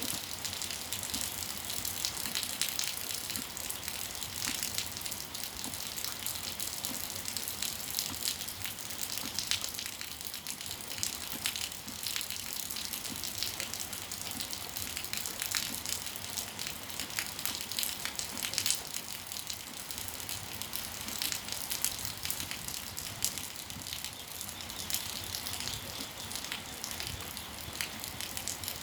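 Steady rain falling, with a dense patter of individual drops striking hard surfaces over an even hiss.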